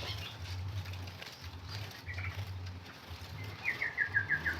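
A bird singing: a short double note about halfway through, then near the end a quick run of about eight notes, falling in pitch, over a low steady hum.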